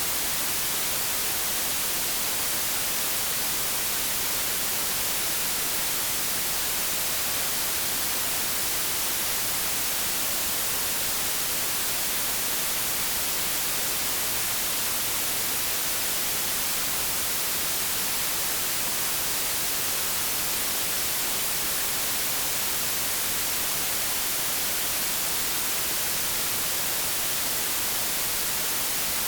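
Steady white-noise static, an even hiss with no change, brightest in the high end.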